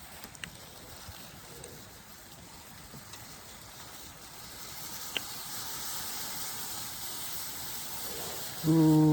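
Pot coming to the boil over a campfire: a steady hiss of steam that grows louder over the second half, with a few sharp crackles from the fire. A man's voice cuts in loudly near the end.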